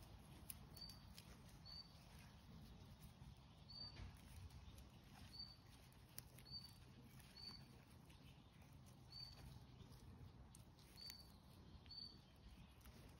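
Near silence: faint outdoor garden ambience with a small bird's short high chirp repeated about ten times at uneven intervals. A few faint clicks and rustles of hands among the strawberry leaves.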